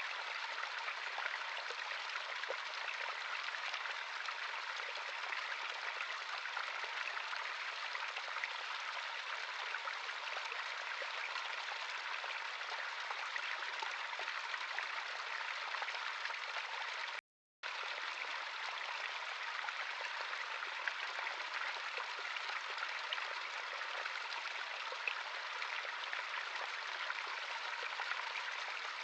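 A natural stream's running water, a steady babbling rush with no change in character. Near two-thirds of the way through it cuts out to silence for a split second, then carries on as before.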